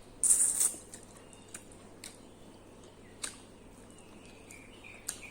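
Close-up eating sounds: a short, loud wet burst of slurping or crunching early on, then scattered soft mouth clicks of chewing. A faint high chirping tone wavers near the end.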